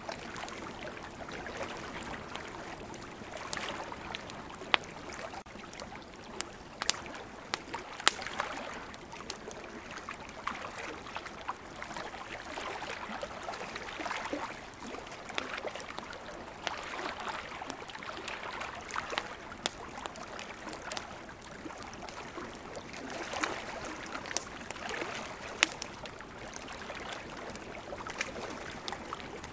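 Wood campfire crackling, with sharp irregular pops, a few much louder than the rest. Under it runs a steady wash of sea waves that swells and eases every few seconds.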